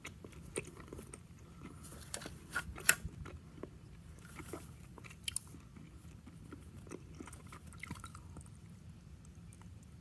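Scattered small clicks and crackles of hands handling wiring and plastic parts, loudest just before three seconds in.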